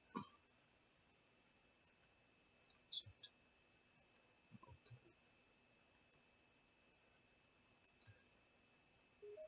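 Computer mouse clicking, mostly quick double clicks every second or two, over near silence.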